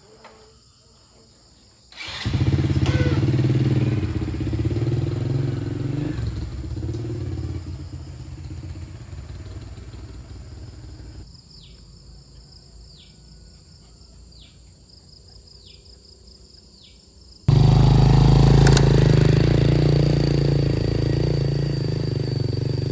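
Motorcycle engine running loud and slowly fading as it moves away. It breaks off for a quieter stretch of steady insect drone with five short falling chirps, then the motorcycle engine comes in loud again and fades.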